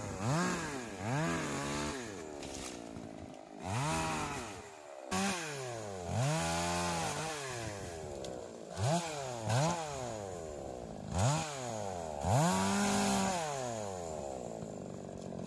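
Chainsaw revved up and down over and over, its pitch climbing and falling back about once a second, as it is used to cut up peach-tree wood for firewood.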